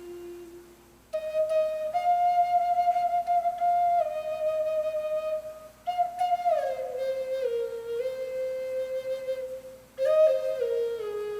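Hand-carved Native American flute playing a slow solo melody. Phrases are held and step downward, with short breaths before new phrases at about one, six and ten seconds in.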